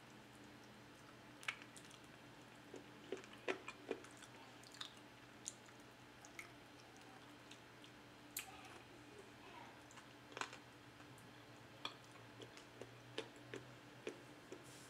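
A person biting and chewing braised chicken adobo off the bone: soft, wet mouth clicks and smacks at irregular intervals.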